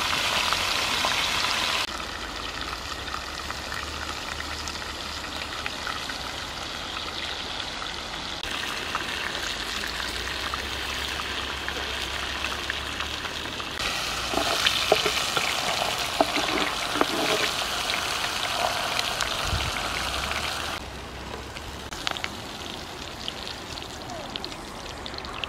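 Pig's head frying in a metal pan of oily chili sauce over a wood fire, sizzling with small crackles; the level jumps up and down abruptly several times.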